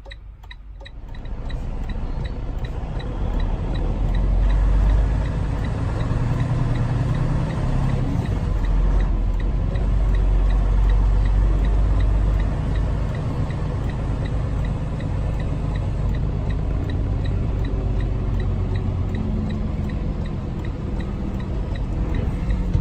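Semi-truck's diesel engine pulling away and running under load, heard from inside the cab; it grows louder over the first few seconds, then settles into a steady deep rumble. A turn signal ticks steadily throughout.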